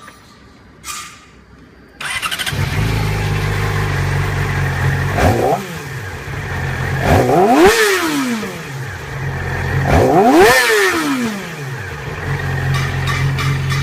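A 2015 Yamaha R6's inline-four engine, fitted with an aftermarket exhaust, starts about two seconds in and idles. It is then revved three times, each rev a quick rise and fall in pitch, with the second and third the loudest, before it drops back to idle.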